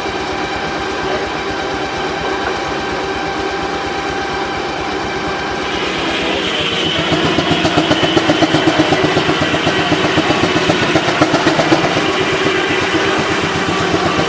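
Steam traction engine driving a sawmill, running steadily with several constant tones. About six seconds in it gets louder, with a fast, even beat and a higher whine, as if the mill took on load.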